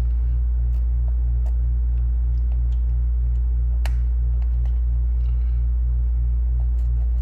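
A steady low electrical hum with a buzz just above it that throbs about four times a second, and a few faint light clicks from work at the bench.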